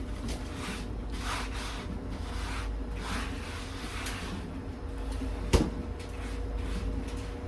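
Kitchen handling sounds while onions are readied for dicing: several soft, irregular rubs and swishes, then one sharp knock about five and a half seconds in, over a steady low hum.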